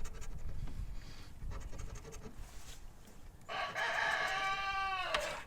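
A rooster crows once, about three and a half seconds in: one long call that falls away at the end. Before it, a lottery ticket is scratched faintly.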